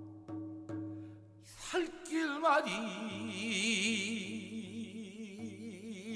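Korean shaman-ritual singing (gueum) by a male singer, with a few sharp drum strokes in the first second. From about two seconds in, the voice slides up and then holds long notes with a wide, slow vibrato.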